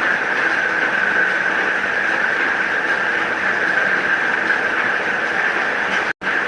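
Electric paper guillotine cutter (DQ 201) running with a steady, continuous whine, the old unserviced machine not strong enough to push the cut through. The sound cuts out for an instant near the end.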